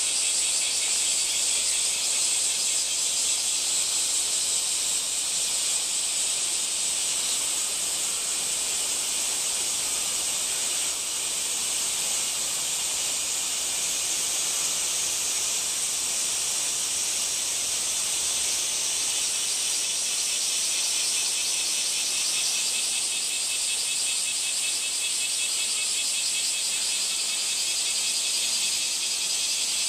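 Cicadas singing in a steady, unbroken high buzz.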